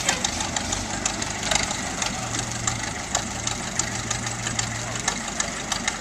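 Old United motor grader's engine running steadily, with many short, irregular clicks and ticks over its sound.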